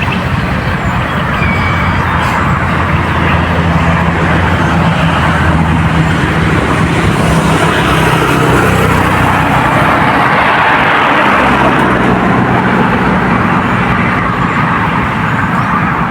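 A motor engine running with a steady low hum and a rushing noise that grows louder about halfway through and eases off near the end, as of an engine passing by.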